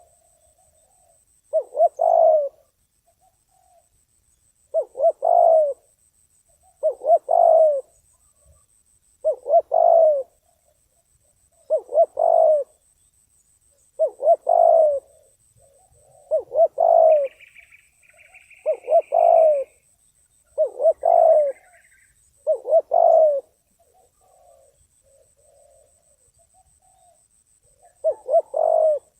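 Spotted dove cooing: a two-to-three-note coo phrase repeated about every two and a half seconds, ten times, then a pause of about five seconds before one more near the end. A small bird chirps briefly twice in the middle.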